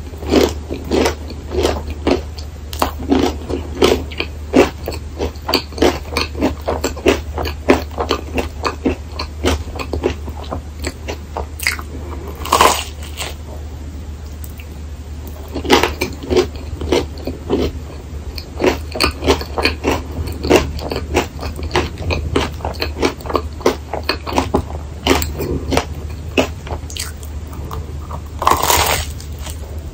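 Close-miked crunchy chewing of a crisp rice waffle filled with whipped cream: fast crackling clicks of the waffle breaking between the teeth, with soft wet mouth sounds. There are two louder crunching bites, one about thirteen seconds in and one near the end. A steady low hum runs underneath.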